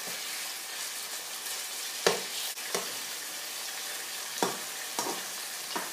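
Shrimp and sea bass pieces sizzling in olive oil in a frying pan, with a slotted spatula knocking and scraping against the pan about five times as they are stirred.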